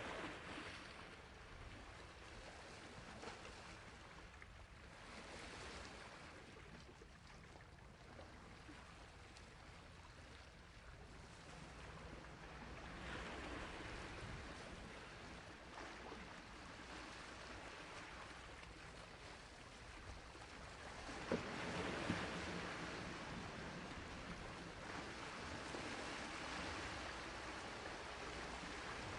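Sea waves washing on a shore, a faint, even rush that swells and eases over several seconds and grows louder about two-thirds of the way in, with two brief knocks at that point.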